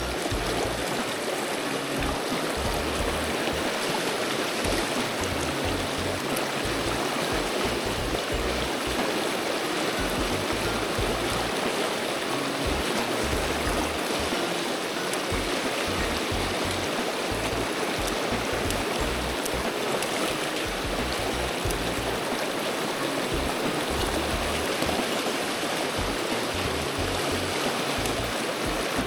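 Mountain stream water rushing in a steady, even flow.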